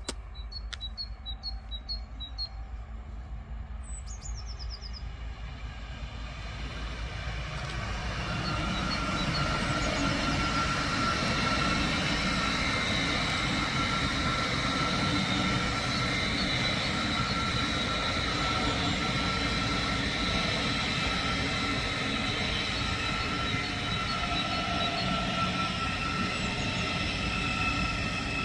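Birds chirp over a quiet background. Then an electric train approaches and passes close by, its rumble building over several seconds into a loud, steady rolling noise with high, steady whining tones.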